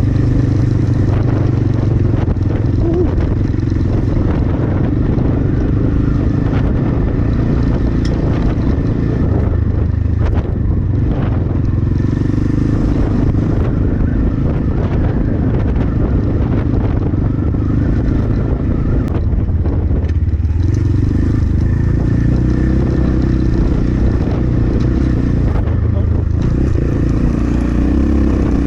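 Templar X 250 dirt bike engine running under way on a trail, its note easing off briefly a couple of times and picking up again. Wind buffets the microphone.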